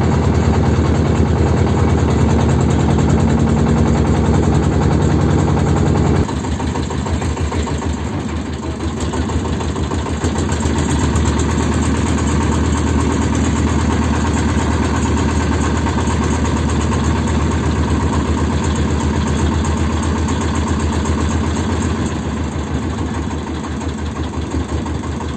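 Small wooden river motorboat's engine running steadily; about six seconds in it suddenly gets quieter and keeps running at the lower level.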